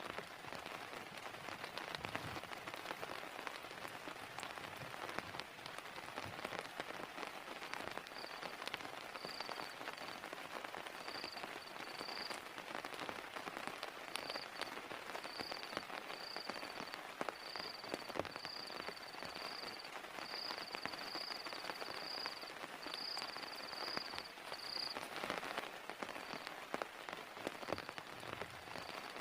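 Heavy rain falling steadily on a surface, with many individual drops hitting sharply. From about eight seconds in, a high chirping repeats in short pulses for most of the rest of the clip, then fades to faint occasional chirps.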